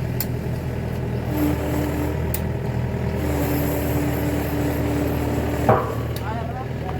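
Truck engine running with a steady low drone, heard from the cab, a higher steady hum coming and going over it. A few sharp clicks, and a single loud knock near the end.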